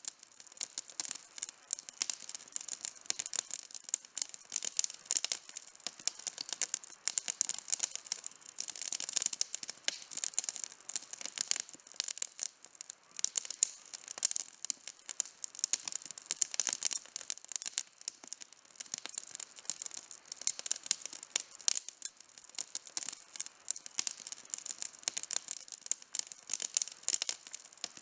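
Campfire burning with steady dense crackling: many sharp snaps and pops from the burning wood.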